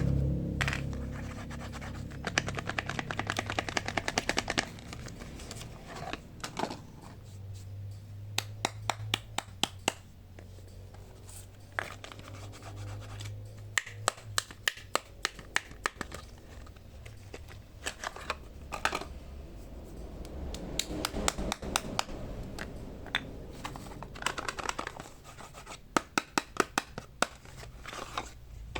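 Hands opening soap packaging: scratching and rustling of wrappers and boxes, broken by many sharp taps and clicks, some coming in quick runs.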